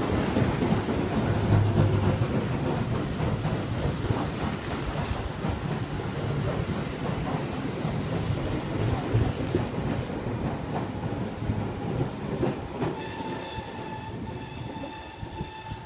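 Tobu 6050 series electric train running into the station past the platform and slowing, wheels clicking over rail joints under a rumble that gradually fades as it comes to a stop. A steady high-pitched ringing tone comes in near the end.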